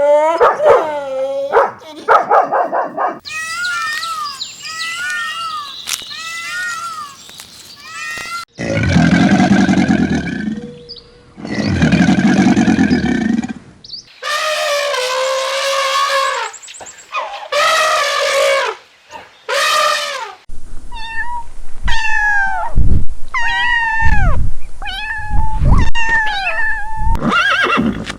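A run of different animal calls one after another: short high-pitched calls at first, then two long low calls, then several more long calls, and near the end a series of short calls falling in pitch.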